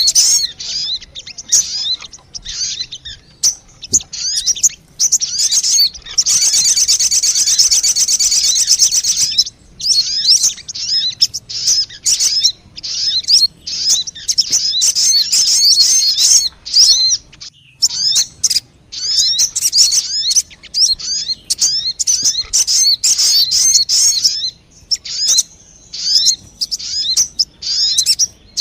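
Recorded call of the bird known in Indonesia as sogon, played as a lure call: runs of fast, sharp, high-pitched chirps with short pauses, and a dense unbroken trill lasting about three seconds, starting about six seconds in.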